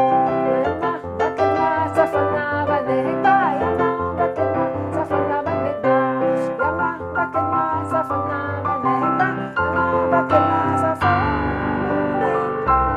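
Keyboard with a piano sound playing a Hasidic nigun melody over chords. The texture changes about eleven seconds in.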